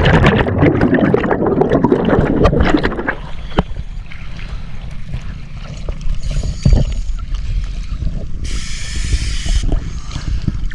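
Scuba divers entering the sea together from a boat: a loud rush of splashing water for about three seconds, then water sloshing and gurgling around the microphone, with a brief hiss about nine seconds in.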